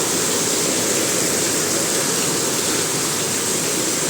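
Heavy rain pouring down with runoff water rushing, a steady even rush of noise.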